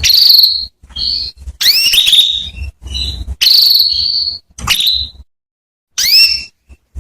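Female canary calling: a run of short, loud calls about once a second, some sweeping upward in pitch and some short trills.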